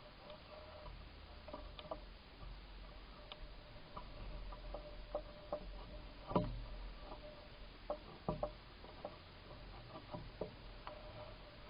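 Bicycle being ridden: irregular light ticks and knocks from the bike, with a sharper knock about six seconds in, over a faint steady hum and low rumble.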